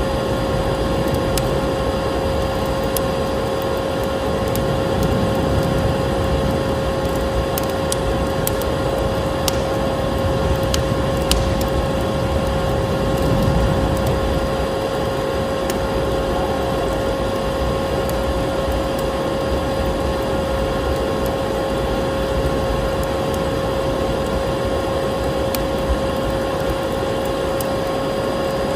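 Vacuum cleaner running steadily with a constant whine, mixed with a wood fire crackling; a few sharp pops stand out about a third of the way in.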